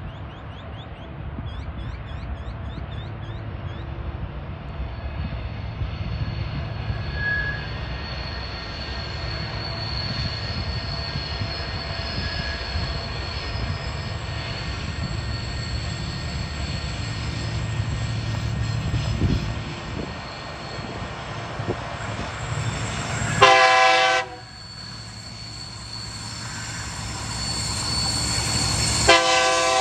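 Three TasRail TR-class diesel locomotives hauling a freight train, their engines running with a steady low rumble that grows louder as they approach. The multi-tone horn sounds twice near the end, a short blast and then a second starting just before the end, warning for the level crossing.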